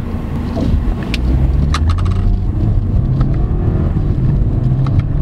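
BMW 318i Sport's 2.0-litre turbocharged four-cylinder engine pulling under acceleration, heard from inside the cabin, its low note climbing steadily. A few sharp clicks sound over it about a second and two seconds in.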